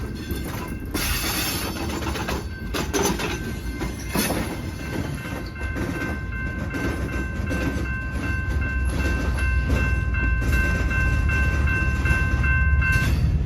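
A train rolling past with a steady rumble, its wheels clicking over the rail joints in an even rhythm. A steady high-pitched tone of several pitches starts a couple of seconds in and cuts off suddenly near the end.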